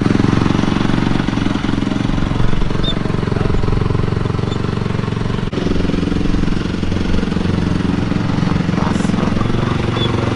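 Dirt bike engine running at a steady low idle, with an abrupt break about halfway through before it carries on at a slightly different pitch.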